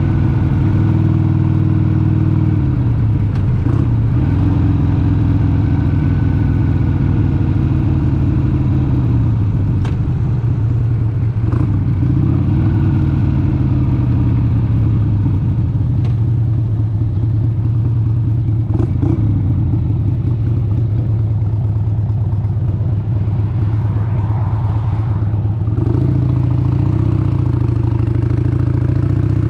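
1996 Harley-Davidson XLH883 Sportster's 883 cc air-cooled V-twin engine running under way on the road, its pitch falling and rising as the throttle rolls off and on. The note drops a few seconds in and comes back fuller near the end.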